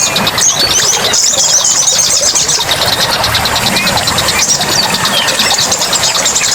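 Forest ambience, dense and steady: many small birds chirping and whistling in short high calls over a fast, evenly pulsing high buzz and a background hiss.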